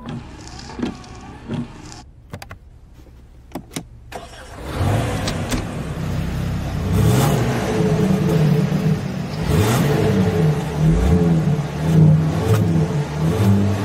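A few clicks and soft thumps, then from about five seconds in a car engine revving, its pitch rising and falling again and again, with a few sharp hits over it.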